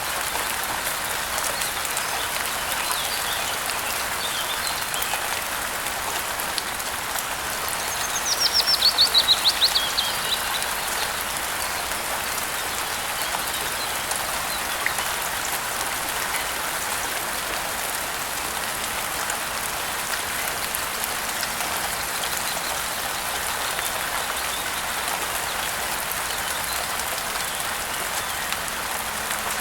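Steady rain pattering on surfaces. About eight seconds in, a bird gives a fast run of chirping notes that fall in pitch over about two seconds, the loudest thing here, with a few faint chirps a little before it.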